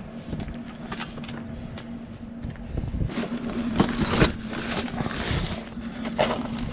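A steady low mechanical hum over a rumbling background, with a few sharp knocks and a louder rustling stretch around the middle.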